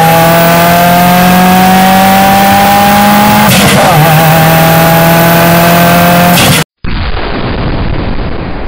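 Car engine running hard under acceleration, its pitch rising slowly, then dipping briefly about three and a half seconds in and holding steady. An abrupt cut near the end gives way to a loud explosion rumble.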